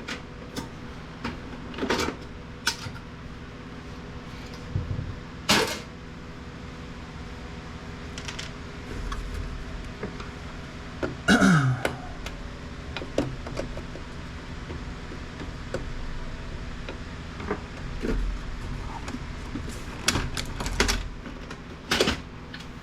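Plastic printer parts knocking, clicking and rattling as they are handled and pulled apart, in scattered irregular strokes, with one louder, longer clatter about halfway through.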